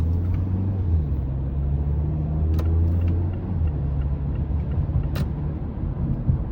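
Cabin noise of a Mazda 3 driving on a wet road: a steady engine and road rumble with a low engine hum that shifts slightly in pitch. Three short sharp clicks come at even spacing, about every two and a half seconds.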